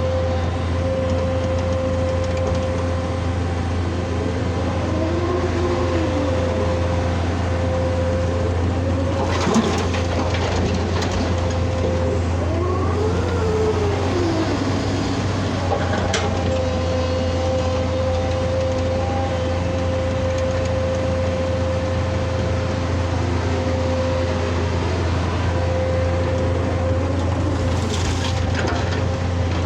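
Excavator running steadily, with a low engine drone under a constant whine. The pitch rises and falls a few times, and three sharp clanks come about ten, sixteen and twenty-eight seconds in.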